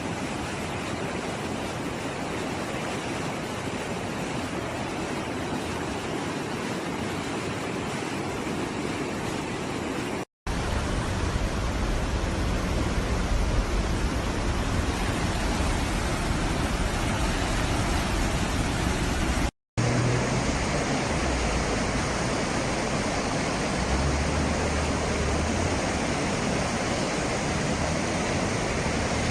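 Floodwater rushing through a wadi: a steady, even rush of water. It is heard as three recordings cut together, with a brief dropout about ten seconds in and another just before twenty seconds; the later two carry a heavier low rumble.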